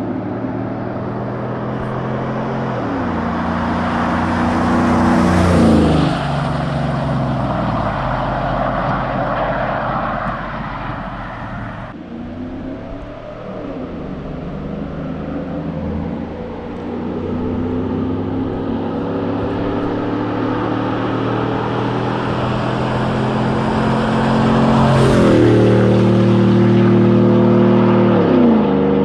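Chevrolet Silverado 5.3L V8 with longtube headers and a Borla XR-1 muffler driving past twice, its deep exhaust note swelling to a peak about five seconds in and again near the end. Each pass-by ends with the pitch dropping. It is quieter in between, around twelve seconds in.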